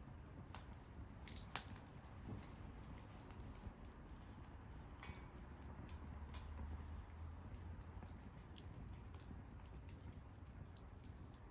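Wood fire burning quietly, with scattered irregular crackles and pops over a low rumble.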